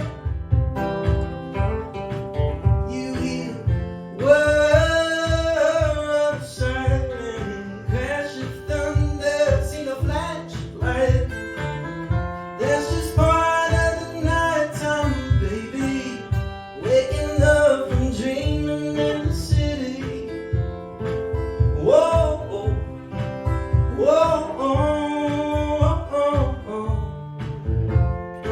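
Live acoustic song: a singer with an acoustic guitar keeping a steady rhythm underneath.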